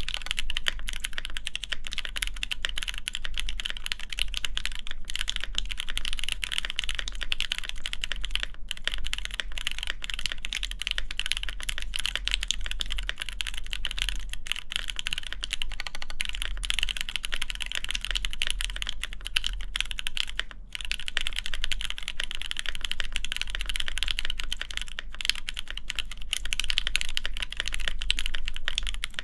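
Fast, continuous typing on a custom mechanical keyboard: lubed Alpaca linear switches under GMK doubleshot keycaps on an FR4 plate, giving a dense stream of key strokes with a brief pause about two-thirds of the way through.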